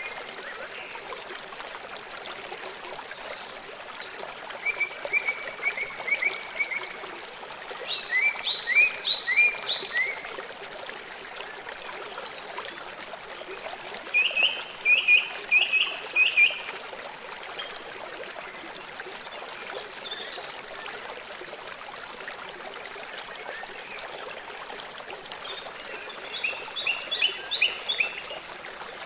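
Steady rushing of a flowing stream. Over it, a songbird sings four short phrases, each a quick run of four to six sharp chirps.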